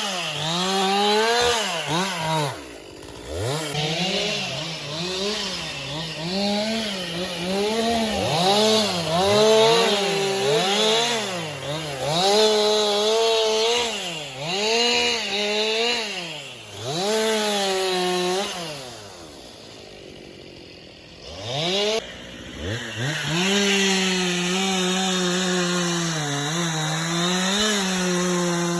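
Stihl two-stroke chainsaw revving up and dropping back over and over as it cuts wood. About two-thirds through it falls back to a quieter low idle for a few seconds, then runs steadily at high speed again.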